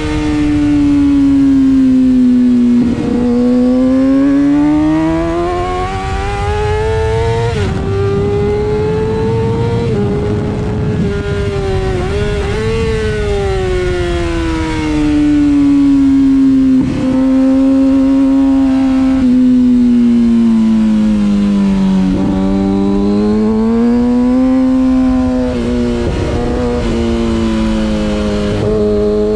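Kawasaki ZX-6R inline-four sport bike engine heard on board at speed, its pitch climbing and falling as the throttle opens and closes, with abrupt breaks in the note at gear changes, over steady wind rush.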